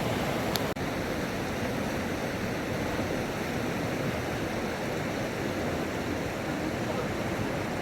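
Fast-flowing floodwater of a river rushing steadily, with a brief drop in level under a second in.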